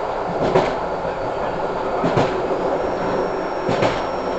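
Passenger train running, heard from inside the carriage: a steady rumble of wheels on rail, with a clack over a rail joint about every one and a half seconds.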